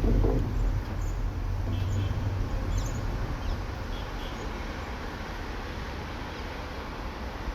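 Low rumble of a passing vehicle, loudest at the start and fading to a steady background hum of street traffic, with a few faint high chirps.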